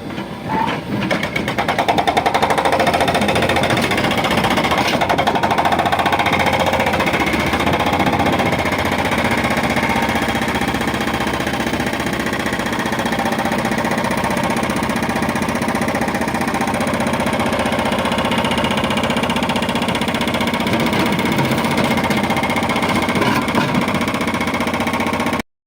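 Diesel engine of a backhoe loader running hard, a loud, rapid, steady chugging that swells about a second and a half in and cuts off suddenly near the end.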